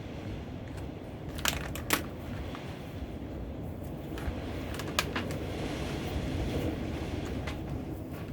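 Steady low rumble of workshop background noise, with a few sharp clicks and taps from handling tools and parts at the workbench, the loudest two close together about a second and a half in and another about five seconds in.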